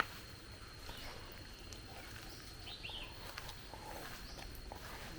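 Faint outdoor ambience: a few short bird chirps over a steady, thin, high-pitched tone and a low rumble, with one sharp click right at the start.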